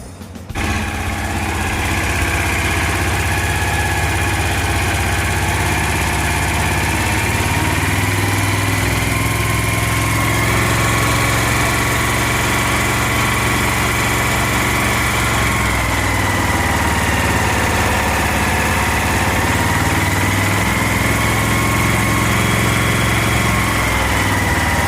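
Engine of a Maeda crawler (spider) crane running steadily, its speed easing slightly up and down a few times. The crane is under test after a repair of its radio remote accelerator fault.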